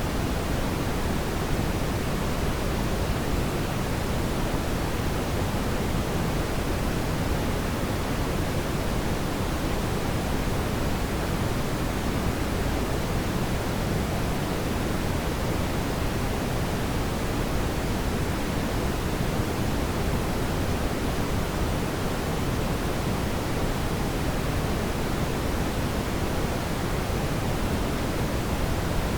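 Steady synthetic brown noise: an even, deep hiss with most of its energy in the low end, unchanging throughout.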